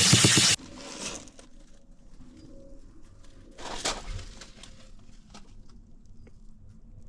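Pressure washer spraying with a fast pulsing under the hiss, then shut off abruptly about half a second in. A short hiss of spray follows a little before the middle, with quiet outdoor background otherwise.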